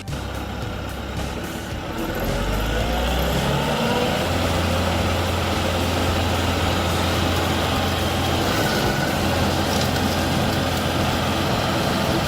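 A heavy machine's engine running steadily, revving up with a rising pitch about two to four seconds in, then holding at the higher speed.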